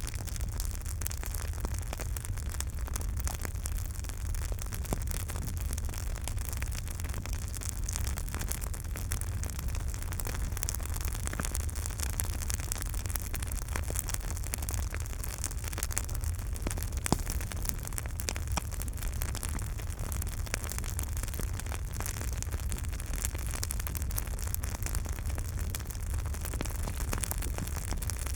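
Campfire burning, the wood crackling continuously with frequent small pops and one sharper pop past the middle, over a steady low rumble of the flames.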